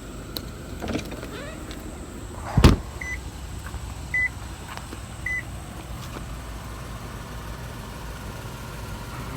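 A single heavy thump about two and a half seconds in, then three short high beeps about a second apart, over a steady low rumble.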